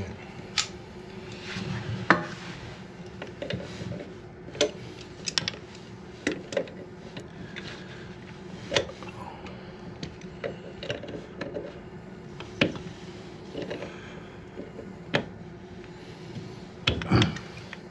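Irregular clicks and knocks of hard plastic and metal parts being handled and fitted while reconnecting a toilet's water supply line. A faint steady hum runs underneath, and a louder clatter comes near the end.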